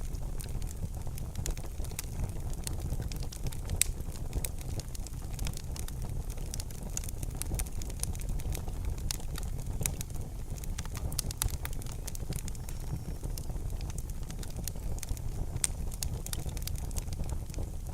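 Fire burning in a fireplace, crackling with many small sharp pops at irregular moments over a steady low rumble.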